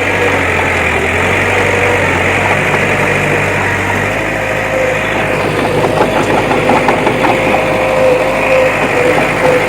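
Diesel engine of heavy earthmoving machinery running steadily, with a steady whine over it and some light clattering in the second half.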